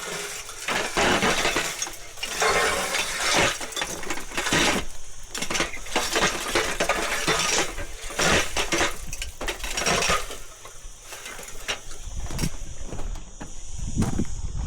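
Cut Callistemon branches and twigs crackling and snapping in quick, irregular bursts as they are handled and broken.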